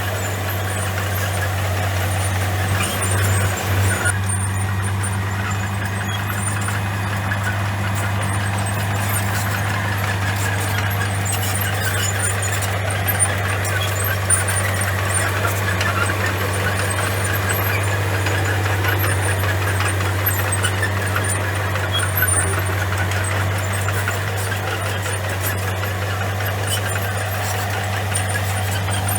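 Komatsu bulldozer's diesel engine running steadily, a constant low hum with clatter over it.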